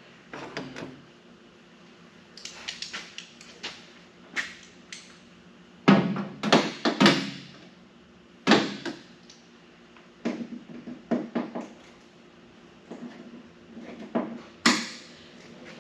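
Sheet-metal cab-corner patch panel being fitted and pushed into place on a pickup cab, giving irregular clanks and knocks, the loudest cluster about six seconds in.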